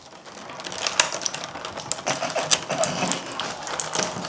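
Irregular small clicks, taps and knocks of kitchen items being handled and set down, several a second, over a soft rustle.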